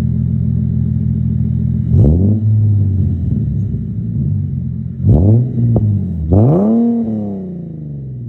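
Infiniti G37 sedan's 3.7-litre V6 idling through a custom catless dual exhaust (test pipes, resonated X-pipe, cheap aftermarket mufflers), revved three times with a short extra blip. Each rev rises and falls back to idle, and the last is the longest.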